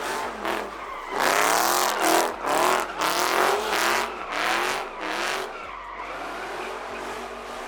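A car engine revving in quick repeated surges, about one and a half a second, over a loud tyre squeal and hiss: a car spinning its tyres on asphalt. The surges ease off after about five and a half seconds into a steadier running sound.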